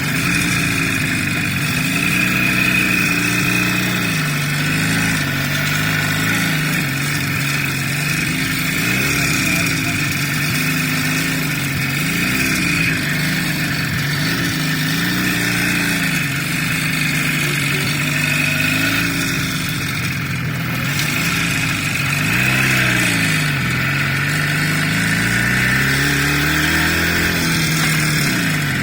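Vehicle engine running while driving, its note rising and falling again and again over a steady background rumble.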